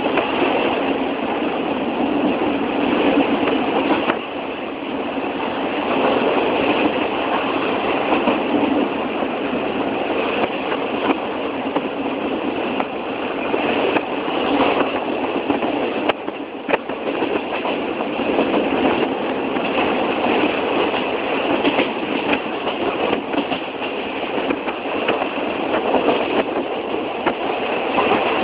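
Old train running along the track: a steady, dense noise of the train in motion, broken by scattered sharp clicks and knocks.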